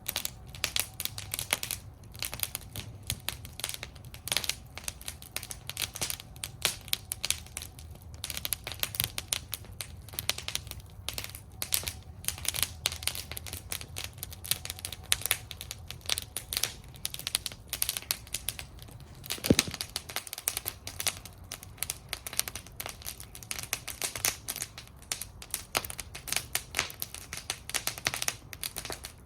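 Wood fire burning in a fire bowl, crackling continuously with many small snaps and one louder pop about two-thirds of the way through.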